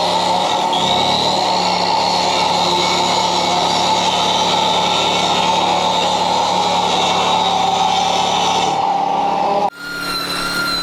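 Belt sander running steadily on a wooden beam, stripping off sticky gel stain. It winds down about nine seconds in, and a different steady hum takes over near the end.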